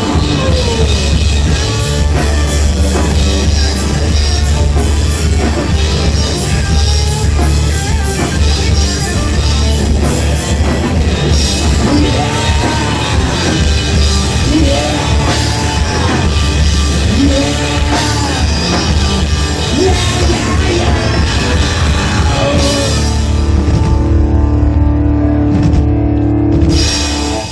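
Live rock band playing loud, with drum kit, bass and a sliding lead line. The cymbals drop out about four seconds before the end, and the band holds a final chord that cuts off as the song ends.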